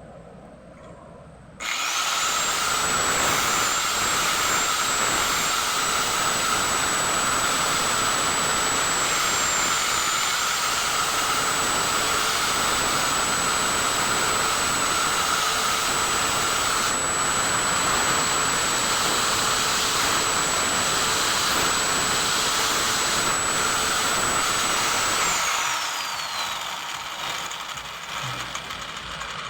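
A high-speed power tool switched on about two seconds in and running steadily with a high whine over its noise. Near the end it is switched off and the whine falls away as the tool spins down.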